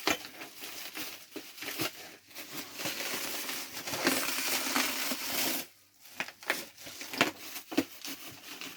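Packaging crinkling and tearing as a tightly wrapped box of juices is cut and pulled open, a steady stretch of crinkling giving way to a few seconds of sharp, separate clicks and rustles.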